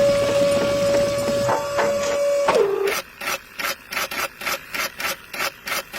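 Small electric motor of a DIY mini concrete mixer running with a steady whine, then winding down and stopping about two and a half seconds in. A regular clicking, about four clicks a second, follows.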